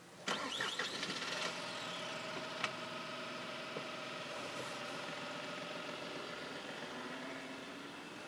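A Mitsubishi Colt hatchback's petrol engine starts about a quarter second in and runs steadily, with one sharp click a little later; the car then pulls away and the sound fades near the end.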